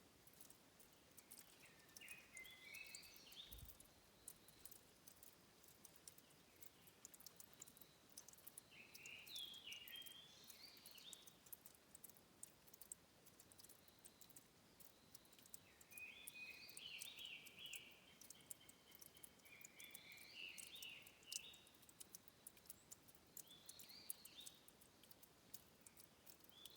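Faint bird song: short phrases of quick, bright notes that repeat every few seconds, the longest near the middle. Under them is a soft, steady hiss, dotted with many light clicks.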